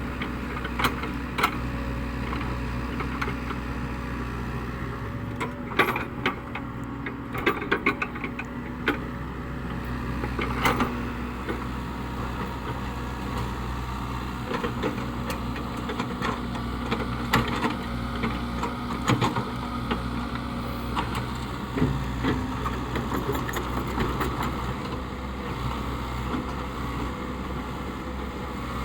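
Caterpillar 307E2 excavator's diesel engine running steadily, with scattered sharp knocks and clanks, most frequent about six to eleven seconds in.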